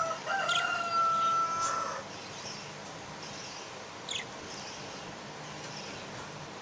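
Birds calling: one long, steady held call in the first two seconds, then a single quick falling chirp about four seconds in, over faint high twittering.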